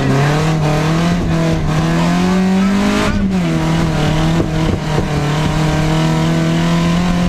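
Rally car engine heard from inside the cabin under hard driving. It revs up for about three seconds, drops sharply, then holds high revs and climbs a little again near the end.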